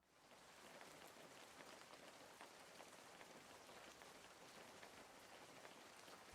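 Faint, steady sizzling with fine crackles, food frying in hot fat in a pan; it starts with the cut and carries on without change.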